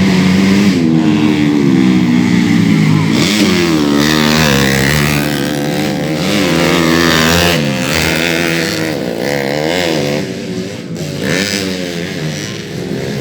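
Several 130cc underbone (bebek) racing motorcycles running hard on the track, their engines revving up and down in overlapping pitches as they accelerate and ease off.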